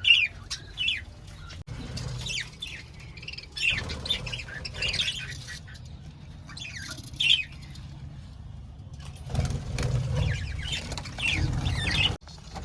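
A colony of budgerigars chattering, with many short, high chirps overlapping throughout. A low rumble joins in from about nine seconds in.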